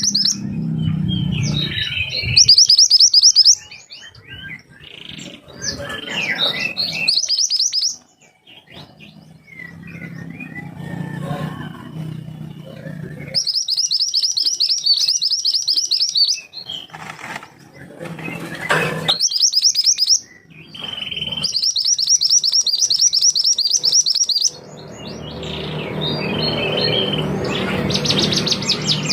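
Mantenan gunung songbird singing: bouts a couple of seconds long of fast, sharp, high trilled notes, broken up by scratchier, varied chirps. A low rumbling noise sits under parts of it, strongest near the start and the end.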